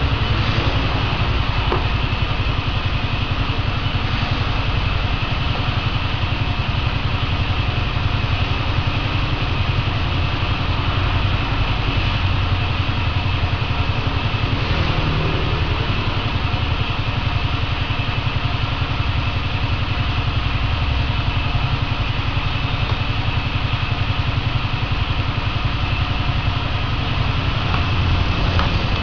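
A steady, unbroken mechanical drone with hiss, like a small motor or blower running.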